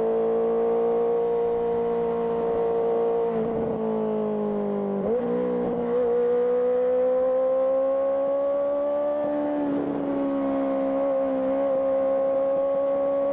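Honda CBR650R's inline-four engine through an aftermarket IXIL IXRACE exhaust, under way. The engine note holds, then falls as the throttle closes, jumps with a gear change about five seconds in, and climbs steadily before a slight drop near ten seconds, likely another shift.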